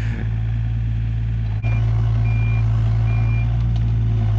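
Kato 35 mini excavator's diesel engine running steadily, growing louder about a second and a half in. Its travel alarm then beeps three times at one high pitch, the sign that the machine is tracking.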